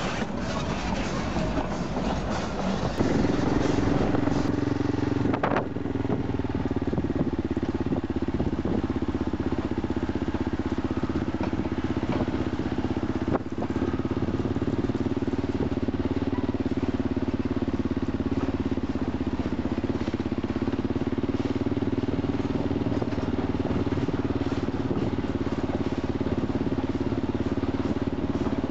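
Kawasaki KLR650 single-cylinder motorcycle engine running steadily at low road speed. Its drone settles into an even note about three seconds in and holds there.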